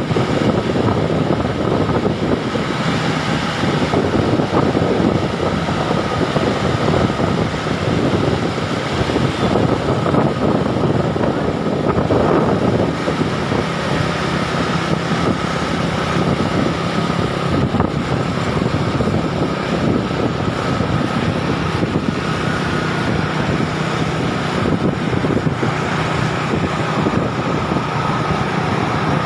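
Steady running noise of a moving vehicle, with wind buffeting the microphone and a faint constant whine.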